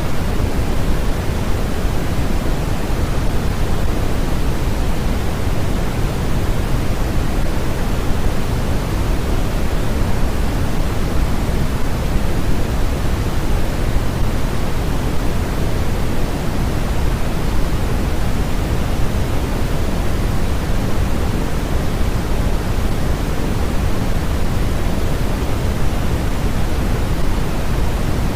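Steady, unchanging synthetic noise, stronger in the lows than in the highs, so it sounds deeper than a bright hiss, more like pink noise than true white noise.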